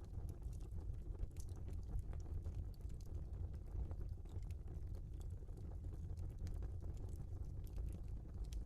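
Wood logs burning in a fireplace: a low steady rumble under frequent small, sharp crackles and pops.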